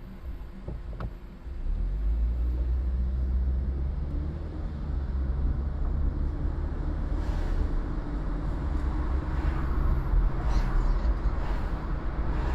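Vehicle running with road noise: a steady low drone comes in about two seconds in and carries on. More hiss and a few rattles join it in the second half.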